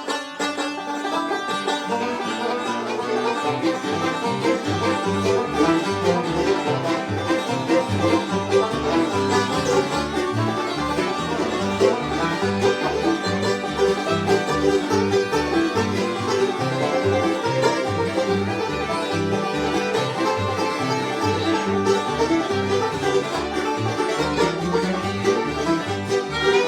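Bluegrass band playing an instrumental tune, with banjo and guitar picking a steady beat and a fiddle in the ensemble.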